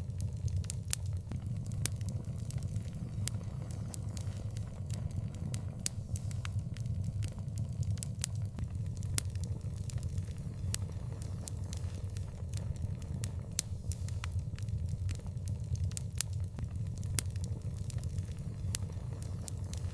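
Wood fire burning in an outdoor fireplace, crackling with many irregular sharp pops and snaps over a steady low rumble.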